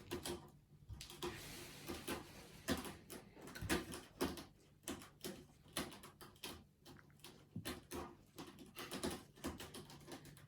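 A cat sharpening its claws: a quick, irregular run of scratching, tearing strokes.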